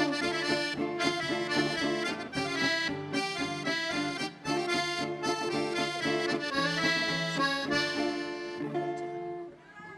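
A folk band plays the instrumental close of a song, led by accordion with melody and chords. The music dies away near the end.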